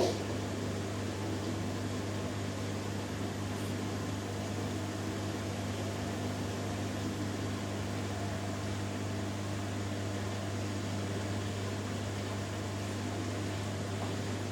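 Hoover Dynamic Next DXA610IW3 and Beko Pro AquaTech WX94044EO washing machines running on their spin cycles: a steady low hum with a faint whirr, and a brief click right at the start.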